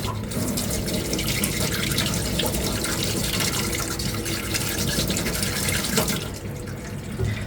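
Sandpaper being rubbed by hand over a small putty-primed armour ring, a steady run of quick scratchy strokes that stops about six seconds in.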